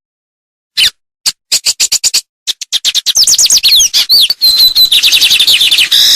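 A songbird singing a fast, varied song after a short silence: a few single chirps, then a quick run of sharp chirps and down-slurred whistles with a brief trilled note near the end.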